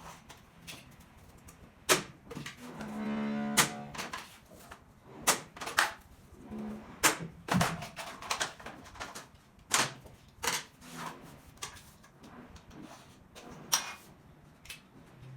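Irregular sharp knocks and clicks of SPC stone-plastic floor planks being tapped and locked together during installation, about a dozen spread unevenly. A low held tone sounds for about a second, about three seconds in.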